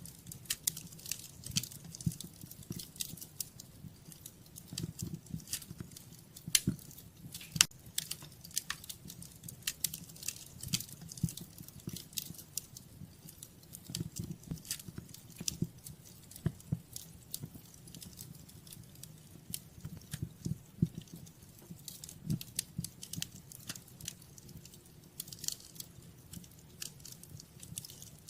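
Wood fire crackling in a fireplace: a continuous run of irregular sharp snaps and pops, some louder than others, over a steady low rumble of the flames.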